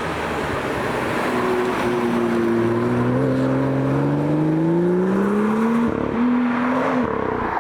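A car engine accelerating, its note climbing steadily for several seconds. The note breaks off briefly about six seconds in, then holds steady.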